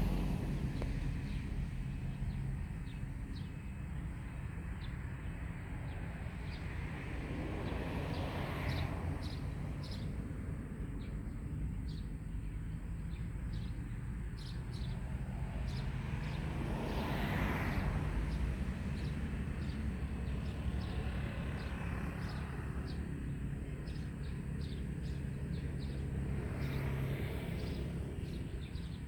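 Outdoor forest ambience: a steady low rumble with three slow swells of rushing noise, about nine seconds apart, and many short, high chirps of small birds scattered throughout.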